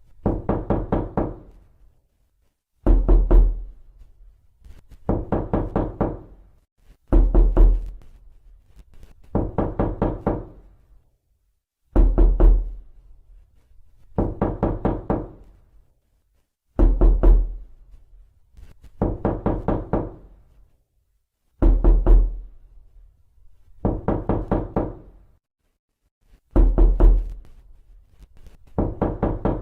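Knocking on a door in bursts of several quick raps, a burst every two to three seconds, each burst ringing on with a low hollow tone.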